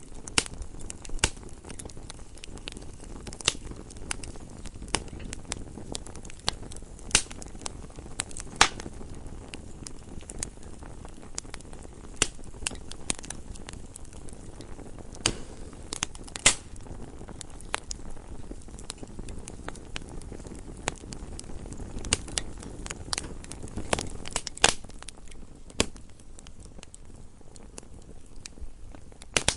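Wood fire burning in a fireplace: irregular crackles and sharp pops from the burning logs over a low, steady rush of the flames.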